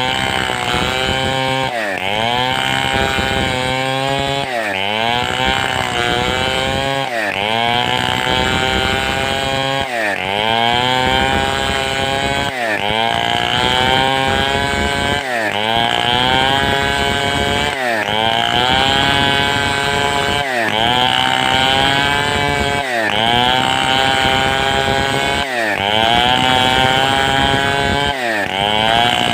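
Large two-stroke Stihl 070-pattern chainsaw running at high revs through a cut. About every two and a half seconds its pitch drops sharply and climbs back as the saw is rocked and the chain bites and frees in the wood.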